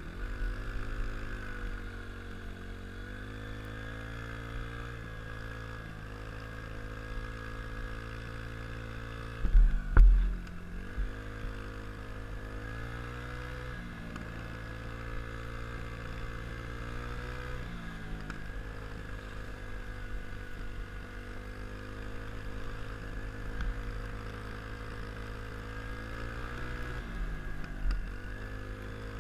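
An engine running steadily, its pitch dipping and recovering every few seconds as if loaded and unloaded, with a loud thump about ten seconds in.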